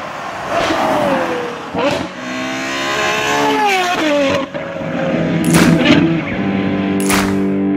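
Ferrari 812 GTS's naturally aspirated 6.5-litre V12 through a Novitec sport exhaust, revving with its pitch falling and rising several times, with a few sharp cracks in the second half.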